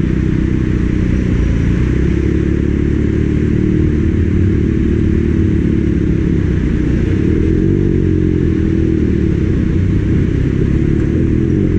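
Kawasaki Ninja ZX-6R inline-four engine running at a steady pace while being ridden, with wind rushing over the microphone.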